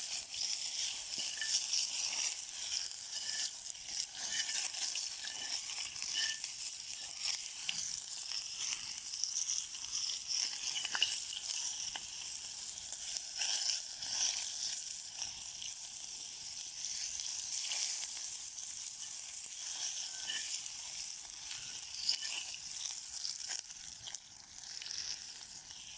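Chopped onion sizzling and crackling in hot oil in a new cast-iron kazan, stirred now and then. The onion is being fried to season the new cauldron and will be thrown out.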